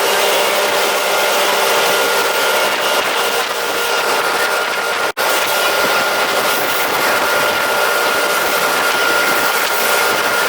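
Motorboat running underway: a steady rushing noise with a high, steady engine whine. The sound cuts out for an instant about five seconds in.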